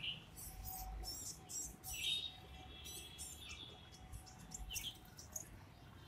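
Small birds chirping: many short, high chirps come in quick groups, with a few lower calls mixed in.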